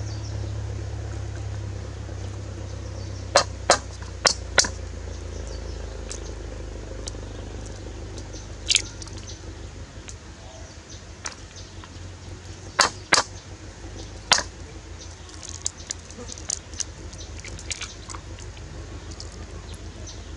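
Eggs frying in a wok with chopped green onion and chilli: hot oil spitting in scattered sharp pops, a few in quick clusters, over a low steady rumble.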